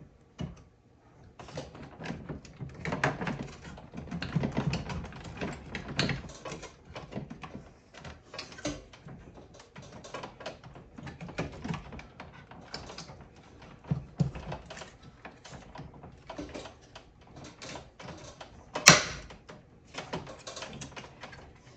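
Irregular clicks, knocks and rattles of parts being pushed and worked as a replacement blower motor and fan wheel are forced into a mini-split air handler, catching on the evaporator. One sharp knock near the end is the loudest.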